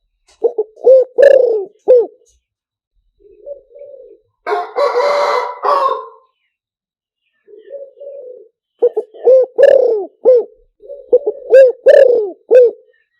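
Spotted dove cooing in repeated phrases of short looping notes, a decoy call for luring wild doves. About four and a half seconds in, a harsher, noisier call of about a second and a half breaks in between the coo phrases.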